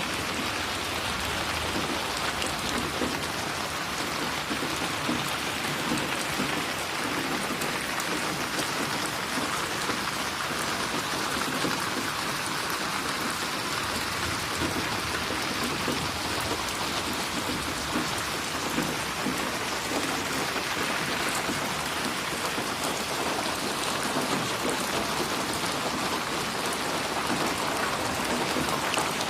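Steady rain falling, with individual drops splashing close by on a surface.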